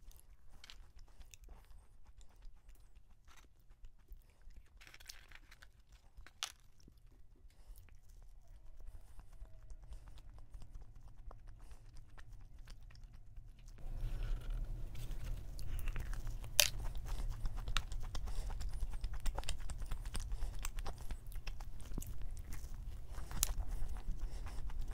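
Close-miked chewing and crunching of a donut with a crumbly cookie topping, with scattered sharp mouth clicks. About halfway through, a steady low rumble comes in under the chewing and stays.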